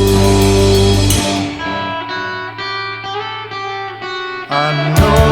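Indie rock song: the full band with drums drops away about a second in, leaving a guitar picking single notes, then the drums and band come crashing back in near the end.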